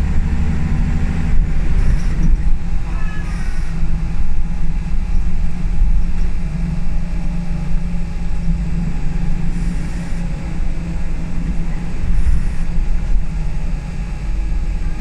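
Scania L94UB single-deck bus under way, heard from inside the saloon: a steady drone from its diesel engine and a low road rumble. There are a few brief higher rattles or squeaks about three, ten and twelve seconds in.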